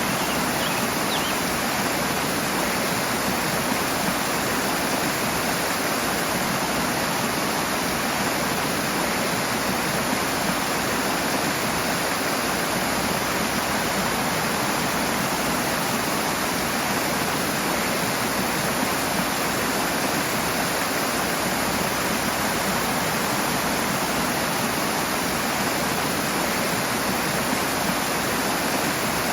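Rushing water, a steady even roar of fast-flowing stream or cascade with no breaks.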